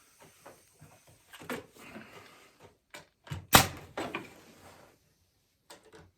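Walnut seat slats being knocked and set into place against a spacing gauge on a chair frame: a few light wooden clacks and one sharp, loud knock about three and a half seconds in.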